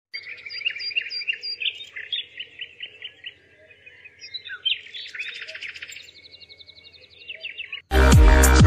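Small birds chirping and singing in quick runs of repeated high notes. Loud electronic music starts abruptly near the end.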